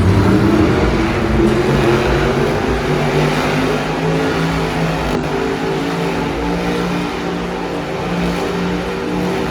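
Monster truck engine revving hard, its pitch rising and falling over the first few seconds, then holding steadier.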